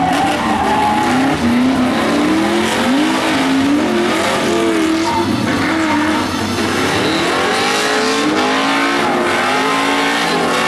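Drift cars' engines revving up and down repeatedly as they slide, with tyre squeal over a steady rush of noise.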